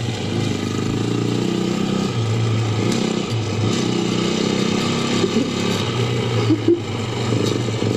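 Yamaha YZ450F dirt bike's four-stroke single-cylinder engine running, its pitch stepping up and down as the throttle is worked. A few brief sharp sounds come near the end.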